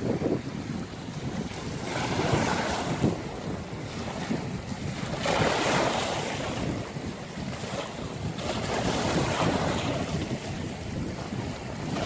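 Sea waves breaking and washing on the shore, with wind rumbling on the microphone. The surf swells louder about two seconds in, again around five to six seconds, and once more near nine seconds.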